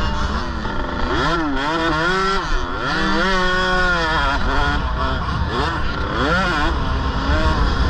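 KTM 65 two-stroke mini dirt bike engine revving, its note climbing and dropping several times as the throttle is worked and gears change.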